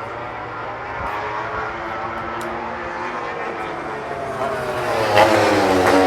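MotoGP racing motorcycle engines at full speed on a straight. One bike closes in and passes near the end, loudest then, its engine note falling in pitch as it goes by, with a couple of sharp cracks.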